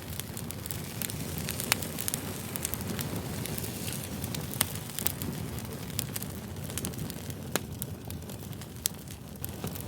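Wood campfire crackling: a steady low rush of flames with irregular sharp pops and snaps, a few of them louder.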